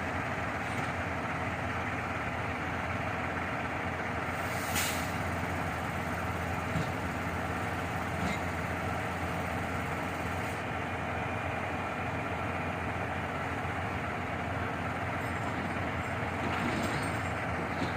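Delivery truck's engine running steadily, with a brief hiss about five seconds in.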